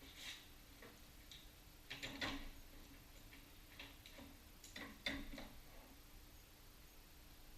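Faint, irregular clicks and light knocks, loudest about two seconds in and again around five seconds, over a faint steady low hum.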